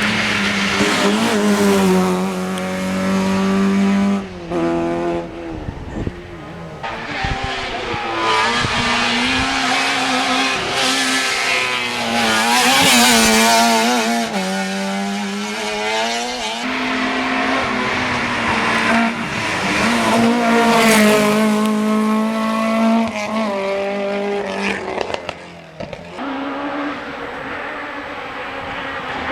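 Rally car engines driven hard on a special stage, revving up and dropping back over and over as the drivers shift gears, with tyre squeal.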